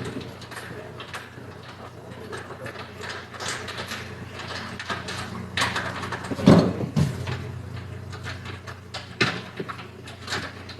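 Irregular clicks, scrapes and knocks of hand tools and car interior parts being worked on while seat screws are removed, with a loud knock about six and a half seconds in, over a steady low hum.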